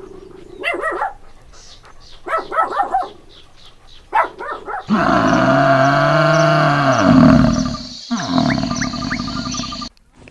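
A series of short animal calls, then a long, loud call lasting about three seconds.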